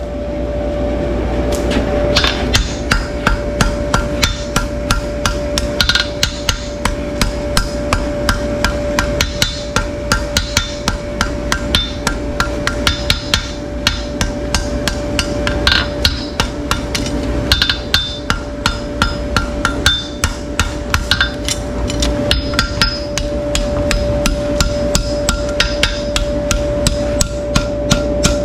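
Rapid repeated hammer-like knocks, roughly two to four a second, over a steady machine hum with a constant tone.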